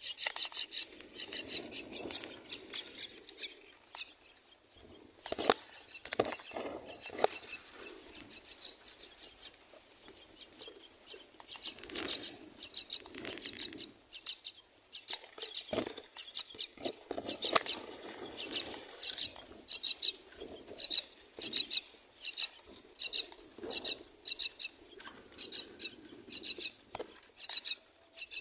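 Common myna nestlings begging in the nest: short, high chirps repeated in a long series, dense and loud at the very start, then settling to a little over one a second. Scattered rustles and knocks come from the nest.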